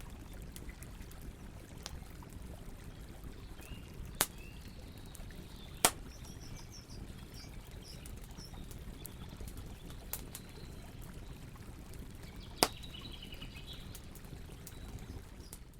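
Campfire burning with a low steady rush and sharp pops of burning wood, three loud ones and a few fainter, with faint bird chirps now and then.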